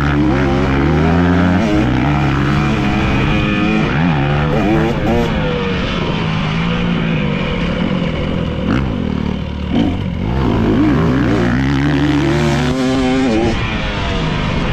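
Dirt bike engine revving up and down as the bike is ridden, its pitch rising and falling with the throttle, with a couple of sudden drops where the throttle is shut.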